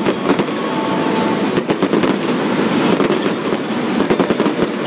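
Fireworks display going off: a dense, unbroken run of rapid bangs and crackles.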